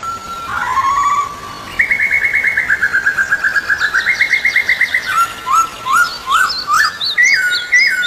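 Small bird singing: a fast trill of rapid repeated whistled notes, then short rising chirps, about two a second, near the end. It is not a peacock's call.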